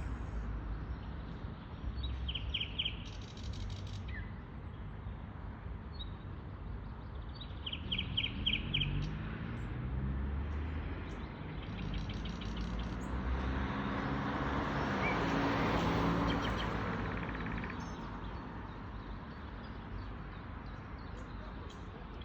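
Nightingales singing: several phrases of rapid repeated notes, over a steady low rumble. A louder rushing sound swells up about halfway through and fades again.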